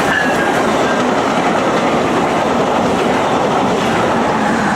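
VIA Rail passenger train passing through a station at speed: a loud, steady rush of wheel and rail noise with clickety-clack.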